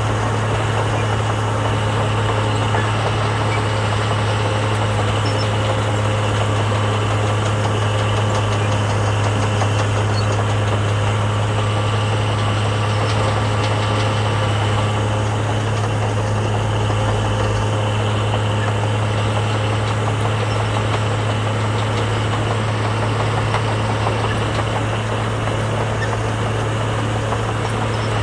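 Diesel engine of heavy earthmoving machinery running steadily, with a deep unchanging drone.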